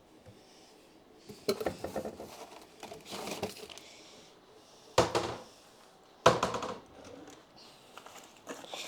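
Handling noises of packing an order by hand: rustling and light clatter of items and packaging, with two sharp knocks of something set down, about five and six seconds in.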